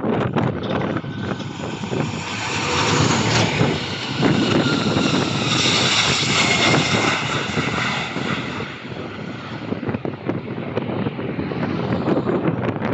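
Airliner engines passing, growing to their loudest around the middle with a faint whine, then easing off. Wind rumbles on the microphone throughout.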